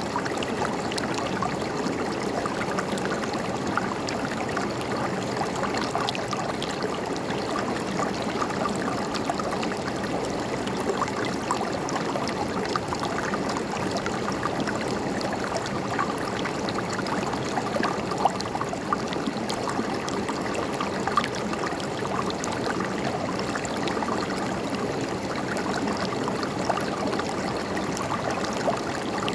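A river or stream flowing and gurgling over rocks, a steady rush of water with small splashes throughout.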